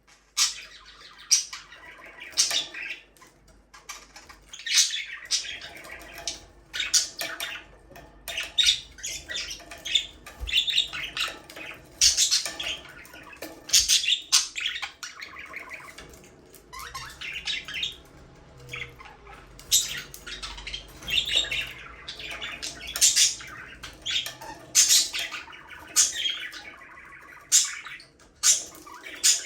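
Pet budgerigars chirping and chattering: many short, high chirps following one another in quick, irregular succession.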